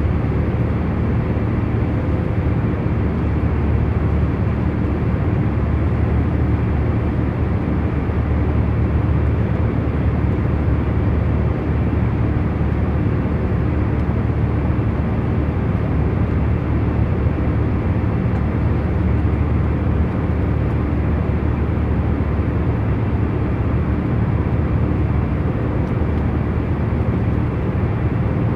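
Airplane cabin noise of an aircraft cruising in flight: a constant deep rumble and rush of air with a few faint steady hums, unchanging throughout.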